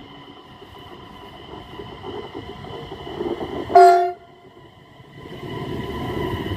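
Västtåg X52 (Bombardier Regina electric train) departing: a low rumble builds, then a single short horn blast about four seconds in, the loudest sound. After a brief lull, the train's running noise rises again as it pulls away.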